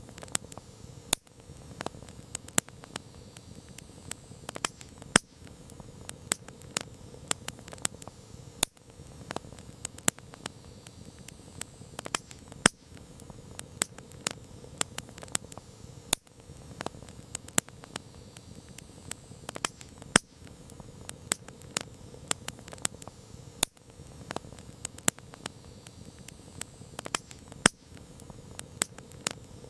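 Campfire crackling: irregular sharp pops and snaps of burning wood, a few much louder than the rest, over a steady low hiss of the flames.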